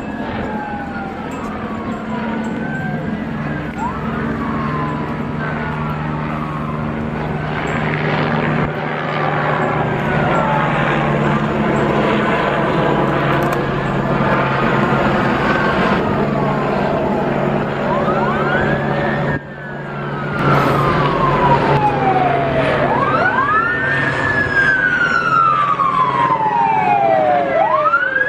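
Police siren wailing in slow rising and falling sweeps over the steady running of a vehicle's engine and road noise. The sound drops briefly about two-thirds in, then the siren comes back louder.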